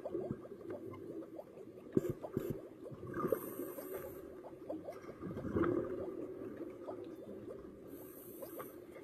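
Scuba diver breathing through a regulator underwater: a short hiss on each inhale, about a third of the way in and near the end, with a bubbling gurgle of exhaled air in between. Many small crackling clicks run underneath.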